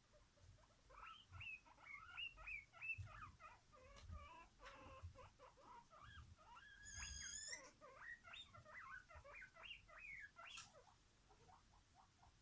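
A pet animal squeaking: a fast run of short, quick squeaks, with one longer, higher squeal about seven seconds in. The squeaks die down near the end.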